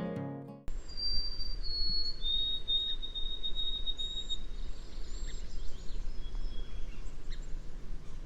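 Acoustic guitar music fades out, then outdoor ambience with a low steady rumble. A bird sings a clear whistled song of a few held notes, each a step lower than the last, ending on a long one, with a few fainter chirps afterwards.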